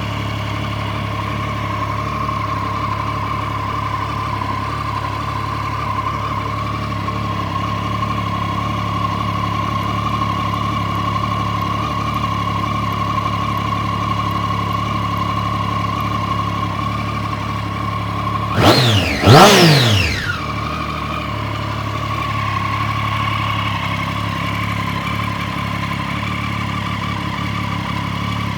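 Triumph Street Triple 675R's 675 cc inline three-cylinder engine idling steadily, with two quick blips of the throttle about two-thirds of the way through, the pitch rising sharply and dropping straight back to idle.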